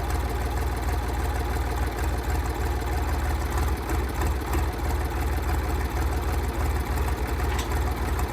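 An engine idling steadily, with a fast, even low pulsing.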